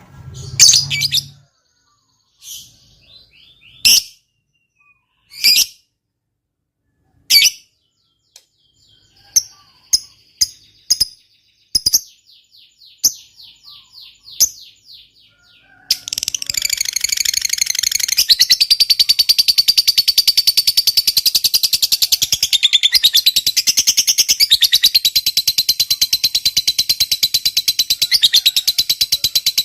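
Lovebird giving separate sharp chirps, then about sixteen seconds in breaking into a long, unbroken, rapid chattering trill, the prized 'ngekek panjang' long trill.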